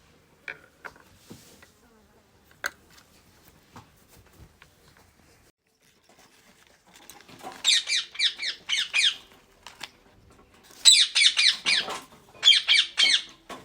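A pet green parrot screeching in quick runs of harsh, rapidly repeated calls, in three loud bursts starting about seven seconds in. Before that there are only a few faint clicks and knocks.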